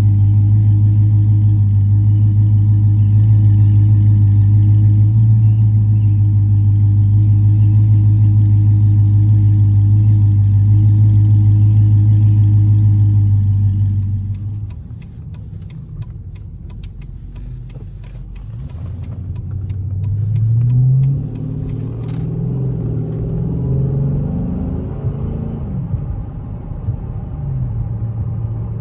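Chrysler 300C SRT8's Hemi V8 exhaust droning steadily and loud for about fourteen seconds, then dropping off quieter. Later the engine rises in pitch twice in soft acceleration pulls, falling back after each. A run of faint clicks sounds in the middle.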